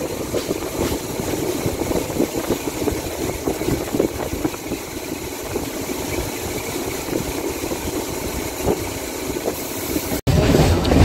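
Running noise of an electric suburban local train (EMU) at speed, heard from its open doorway: a steady rumble of wheels on the rails with small irregular knocks and rattles. The sound breaks off abruptly near the end.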